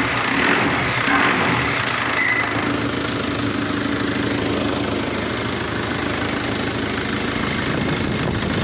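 Isuzu D-Max's 4JA1 four-cylinder turbo-diesel engine idling steadily, with a brief faint high whine about two seconds in; the owner says the turbo bearing is starting to have a problem.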